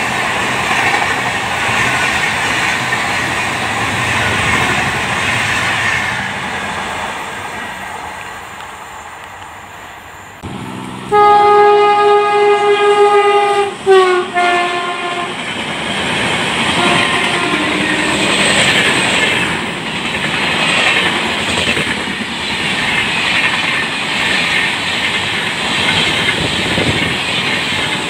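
An express train's LHB coaches rumble and clatter past, fading away. After a break, a WAP-7 electric locomotive sounds its horn for about four seconds, one loud tone that drops in pitch as the locomotive passes. The rumble and clickety-clack of its coaches running through at speed follows.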